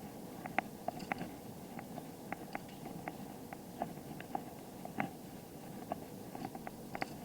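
A bicycle rolling along, with irregular light clicks and rattles, two to four a second, over a steady rumble of tyre and wind noise.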